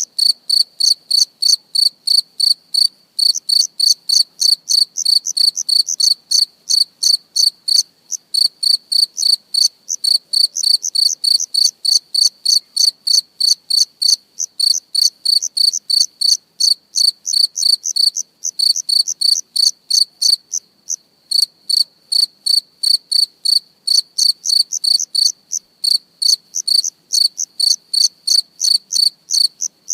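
Insect chirping: a high-pitched chirp repeated about three to four times a second in long runs, broken by a few brief pauses.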